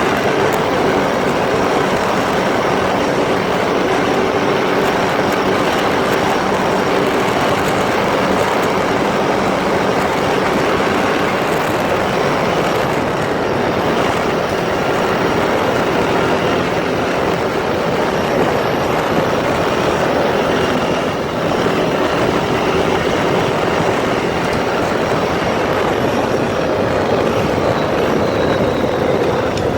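ATV engine running steadily while riding off-road, under a continuous loud rush of noise.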